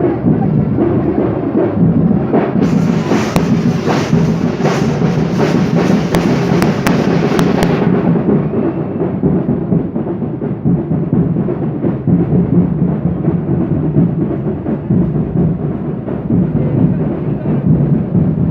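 Loud, continuous drumming with a dense din around it. From about three to eight seconds in, a quick run of sharp cracks rides over the drums.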